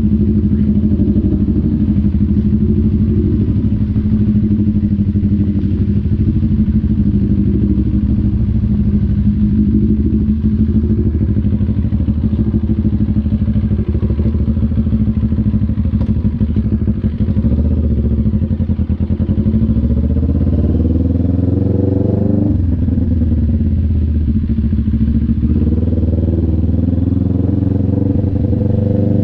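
CF Moto NK400's two-cylinder engine running on the move, holding a steady note for most of the time, then revving up through the gears in the last third, its pitch climbing and dropping back at each gear change.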